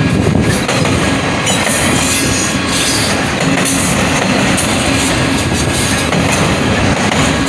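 A train's cars rolling past at close range: a loud, steady rumble and rattle of wheels on the rails.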